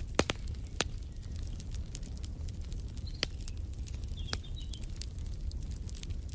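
Wood fire crackling in a fireplace: irregular sharp pops and snaps over a steady low rumble of the burning logs. The loudest pop comes just after the start. Two or three faint bird chirps sound in the middle.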